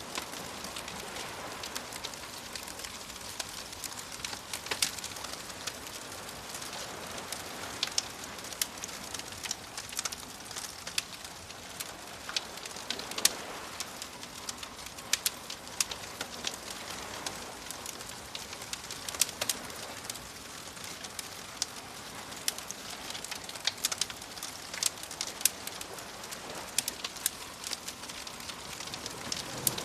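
Wood fire crackling with frequent sharp pops, over a soft wash of waves that swells now and then.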